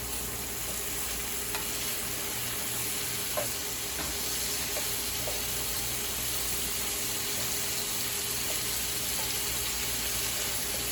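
Sliced onions sautéing in butter and garlic in a pan, sizzling steadily as they cook down and give off their water, with a few light clicks of a utensil stirring them.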